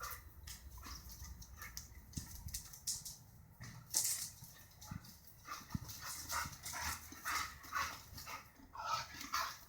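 Border collie making a string of short, fairly quiet vocal sounds, coming thick and fast in the second half.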